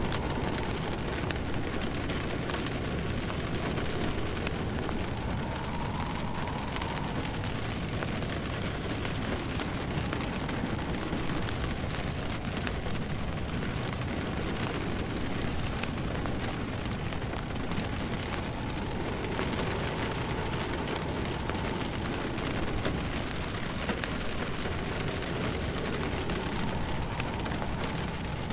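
Steady rain mixed with a wood fire crackling in a fireplace, with small pops scattered throughout.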